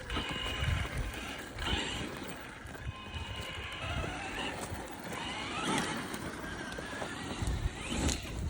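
Electric RC basher with a Castle 1721 1260kv brushless motor driving on rough ground: the motor's whine rises and falls in pitch several times as it speeds up and slows, over rough tyre and drivetrain noise with a few knocks.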